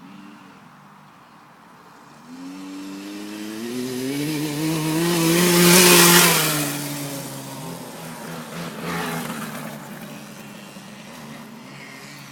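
Small KTM motocross bike engine approaching, revving up as it passes close about six seconds in, then dropping in pitch as it moves away, with a shorter rev again about nine seconds in.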